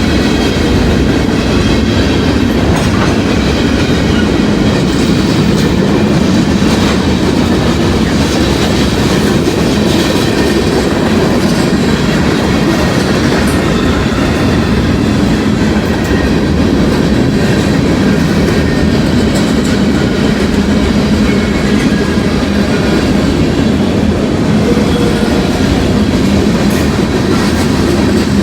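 Mixed-manifest freight train's cars rolling past, a steady loud rumble of steel wheels with clickety-clack over the rail joints.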